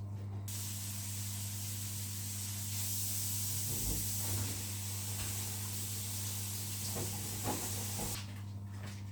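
Water running hard from a tap, a steady spraying hiss that starts about half a second in and cuts off about a second before the end, with a few soft knocks under it.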